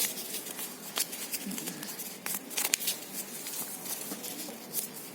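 A folded sheet of paper rustling and crinkling as it is opened out and creased by hand, with a few sharp crackles among the softer rustle.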